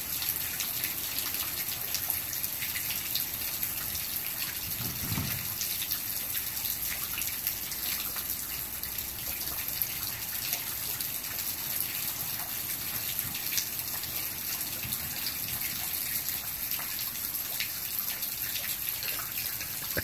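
Steady rain falling, a constant hiss with many scattered drops ticking.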